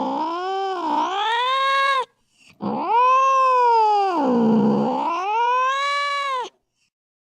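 A domestic cat yowling in long, drawn-out wails whose pitch sags low and climbs back up. The first wail ends about two seconds in, and after a short break a second long wail stops abruptly near the end.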